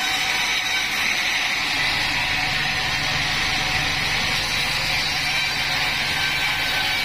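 Band sawmill (Bandsaw 36) running steadily: a constant mechanical drone with a high hiss over a low hum.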